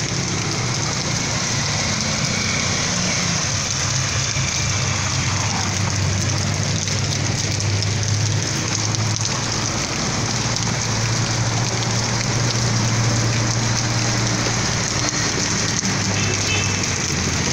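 Heavy rain falling steadily on wet pavement and flooded street, an even hiss with a low steady hum underneath.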